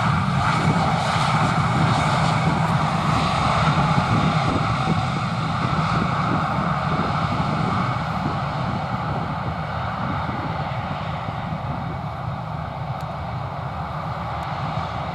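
Airbus A320 jet engines on landing, a loud steady roar that slowly fades over the last half, with reverse thrust slowing the airliner on the runway.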